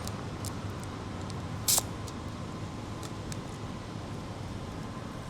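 Plastic food packaging being handled: a few light clicks and one brief sharp crinkle about two seconds in, over a steady low hum of traffic.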